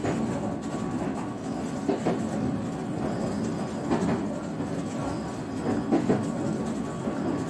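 JR West 125 series electric railcar running along the line, heard from inside the car: a steady rolling rumble with the wheels clicking over rail joints every couple of seconds.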